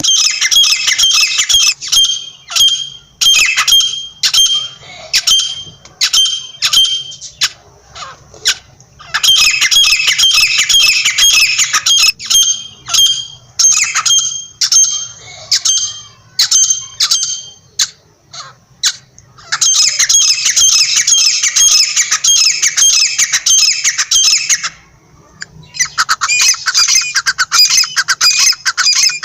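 Francolins (teetar) calling: long bouts of rapid, harsh, repeated calls, broken by short pauses about 8, 19 and 25 seconds in.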